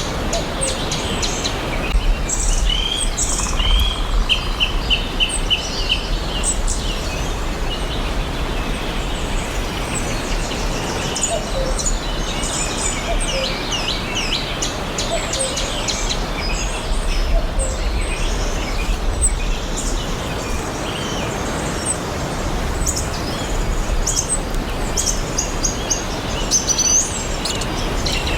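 Several songbirds chirping and singing over a steady background hiss and low rumble, with short high chirps throughout and a quick run of repeated notes a few seconds in.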